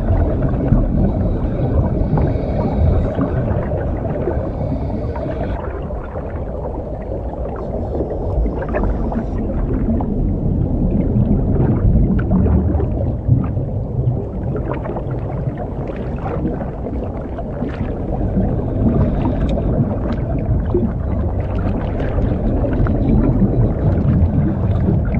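Underwater sound of a scuba diver: a steady low rumble of regulator breathing and exhaled bubbles, with many small clicks. Hissing stretches come and go through the first third.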